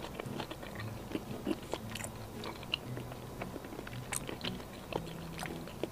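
Close-miked chewing of a bite of raw salmon: scattered soft, wet mouth clicks and smacks.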